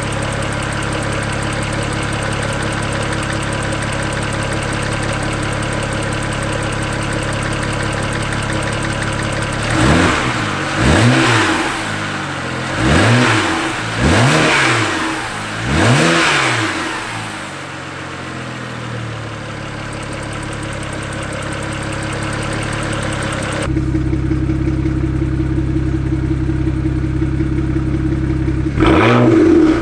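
BMW 335i's N54 turbocharged straight-six idling steadily, then revved in five quick throttle blips that each rise and fall, before settling back to idle; after an abrupt change it idles again and is blipped once more near the end. The engine is running on fresh oil after a crash that drained its oil, and the owner judges that it sounds healthy.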